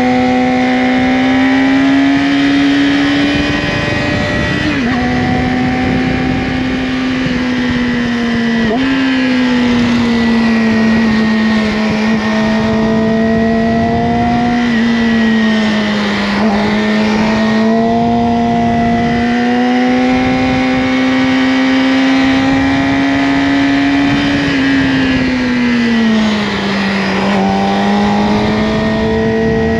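Yamaha R6 inline-four engine through an Akrapovic slip-on exhaust, running at a steady high pitch while riding, rising and falling gently with the throttle. Two quick pitch steps come in the first nine seconds, and there is a slow dip near the end.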